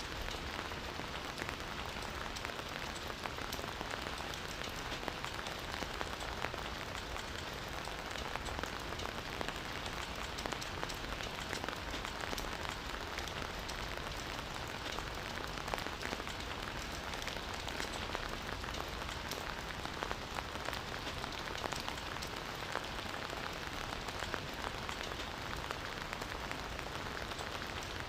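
Steady rain falling and pattering on surfaces, with many fine drop ticks scattered through an even hiss.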